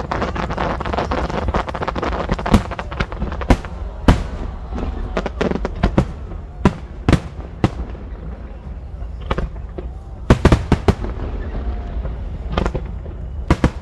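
Aerial fireworks bursting: dense crackling at first, then a string of separate sharp bangs at irregular intervals, with a quick burst of several bangs about ten seconds in.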